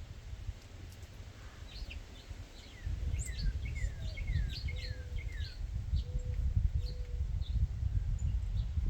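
Wild songbirds chirping, with a quick series of short downward-sliding chirps in the middle and a few fainter calls around them. A steady low rumble runs underneath and grows louder about three seconds in.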